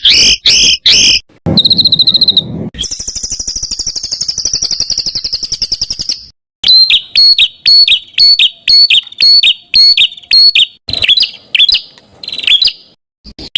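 A songbird sings a varied masteran song, a recording used to train competition songbirds: a short run of repeated notes, a rapid high trill lasting about three seconds, then a series of sharp repeated notes, about three a second.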